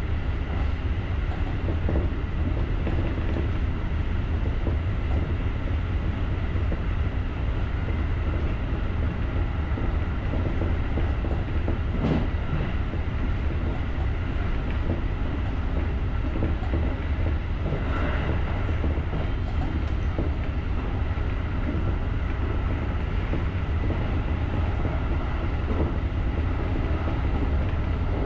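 JR rapid electric commuter train running along the line, heard from the front of the train: a steady rumble of wheels on rail with a faint steady whine and a few clicks over rail joints.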